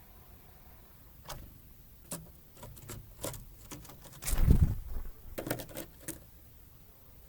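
Small birds of the tit family at a feeder: a loose run of sharp taps and clicks of beaks and claws on the feeder, with one louder, deeper thump about four and a half seconds in.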